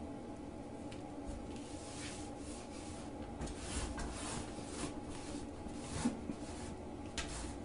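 A woven rag rug being dragged in short tugs across a tile floor and under a door by a cat's paw pulling from the other side: a series of soft scraping rubs of fabric on tile.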